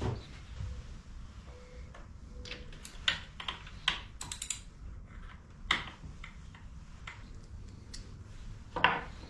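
Irregular light clicks and knocks of hand tools and metal parts being handled during motorcycle suspension work, with a few sharper knocks among them.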